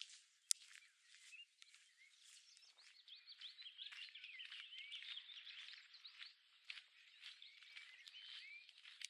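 Birdsong: many short, quick chirps from small songbirds, densest in the middle, with one sharp click about half a second in.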